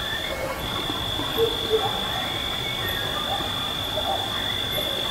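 Faint whistling that wavers up and down in pitch like a tune being whistled, under a steady high-pitched tone and hiss. The investigators present it as an inexplicable whistle humming a melody.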